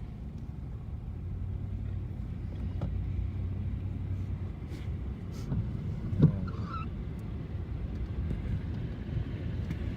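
Car engine and road noise heard from inside the cabin while driving: a steady low hum, with a few short knocks, the sharpest about six seconds in.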